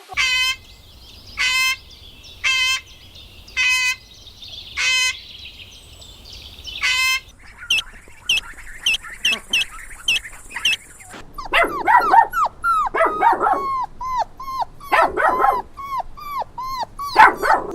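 A dog yipping and whimpering: six short high calls about a second apart, then a quick run of high squeaky chirps, then a busy series of short yips that fall in pitch.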